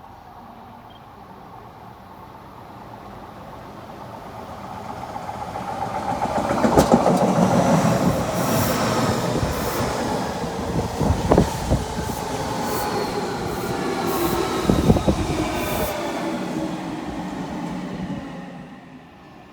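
An Odakyu electric train running past: its rumble builds, holds for about ten seconds and fades, with a few sharp wheel clacks over rail joints and a faint high whine that slides down in pitch.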